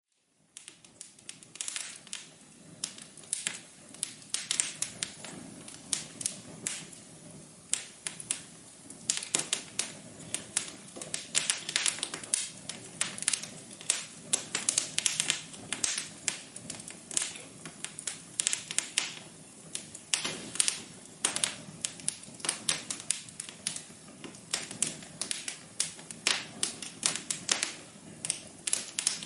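Wood fire in a fireplace crackling, with many irregular sharp pops and snaps over a low steady hiss.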